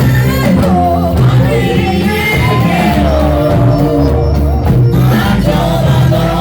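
Live gospel praise music with singing and a band playing: sustained bass and keyboard notes under wavering voices, with some shouts from the congregation.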